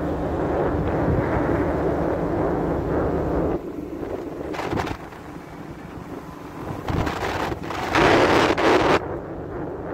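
Strong wind blowing across the microphone in gusts, easing off about three and a half seconds in and gusting hard again near the end.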